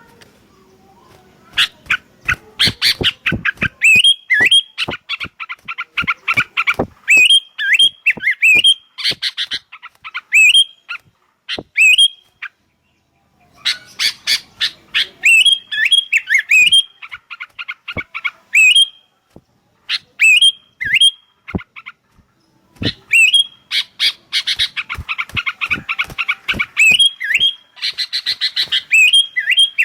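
Sooty-headed bulbuls (kutilang) calling back and forth: loud bouts of short, sharp chirps and quick rising-and-falling whistled notes, broken by brief pauses about 12 and 22 seconds in.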